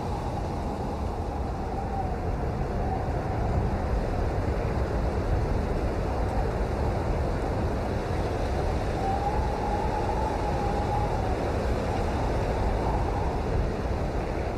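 Steady rain, a dense even hiss that is heaviest in the low end, with a faint wavering tone drifting in and out above it.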